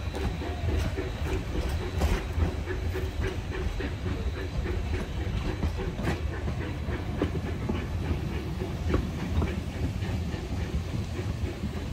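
Narrow-gauge passenger coaches and a caboose rolling past close by: a steady low rumble of wheels on rail, with irregular clicks from the wheels passing over rail joints.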